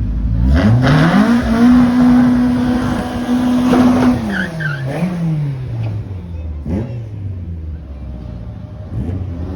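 Drag-racing car launching off the line: the engine note jumps in suddenly, climbs steeply, holds at high revs for a few seconds, then drops away with a brief rise near the halfway point as the car runs down the strip.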